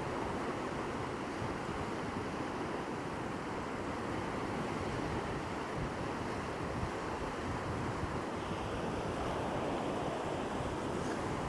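Steady wash of surf on the shore, with wind on the microphone.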